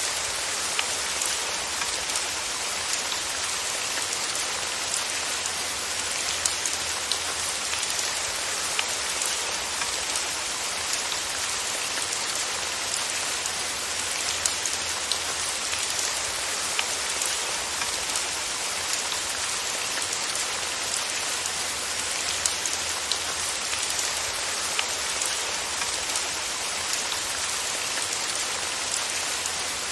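Steady rain with drops pattering on a surface, an even hiss with scattered sharper drop ticks and a faint low rumble underneath.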